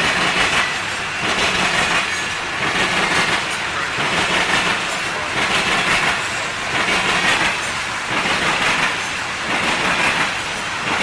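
Loaded coal hopper cars rolling past, steel wheels clattering over the rails in a loud, regular rise and fall about every 1.3 seconds as the cars go by.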